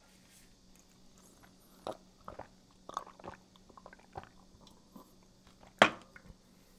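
Close-miked chewing of crusty fougasse bread, a string of short crunches about two seconds in, with the loudest, sharpest crunch near the end.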